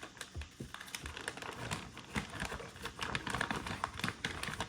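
Paper vacuum cleaner dust bag being opened up and handled: irregular crinkling and rustling of the paper, with small clicks and knocks.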